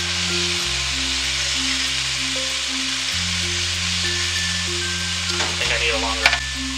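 Chicken pieces frying in a hot wok, sizzling steadily as a utensil stirs and turns them. Near the end come a few knocks against the pan, the loudest a sharp clack.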